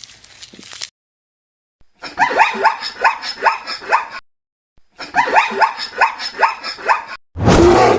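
A dog barking in two runs of quick, repeated barks, about four or five a second, with a short break between them. Near the end comes a short, loud, rough burst.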